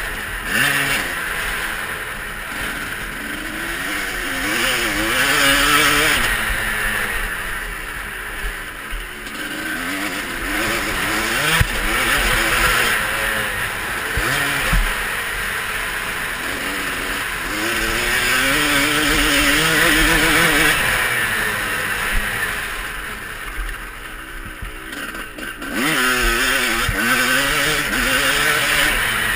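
Motocross dirt bike engine revving up and down as it is ridden round the track, its pitch climbing and dropping again and again through gear changes and throttle.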